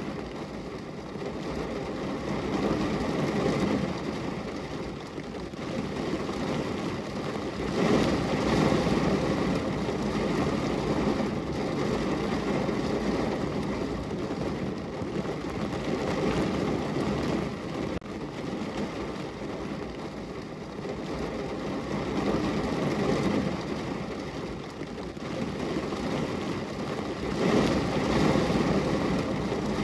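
Rain falling on a window pane: a steady rushing patter that swells louder and eases back every few seconds.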